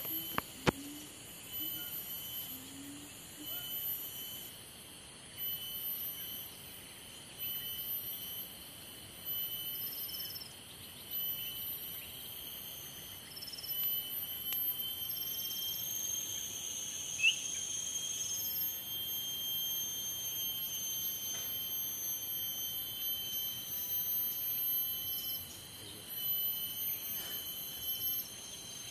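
High-pitched bird and insect chirping, with thin tones repeating at an even pace and softer swells every couple of seconds.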